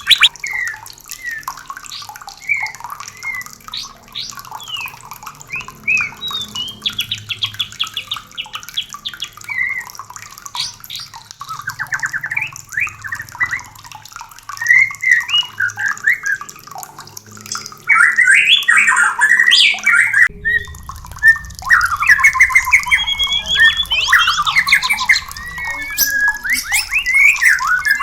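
White-rumped shamas singing and calling in rapid, varied phrases of whistles, trills and harsh chatter, the call of shamas in breeding condition. The song gets louder about two-thirds of the way through.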